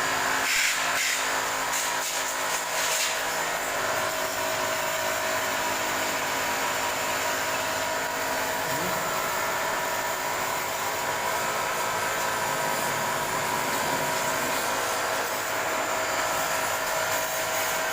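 Steady whine of a small electric motor over a continuous rushing hiss, with no change in speed.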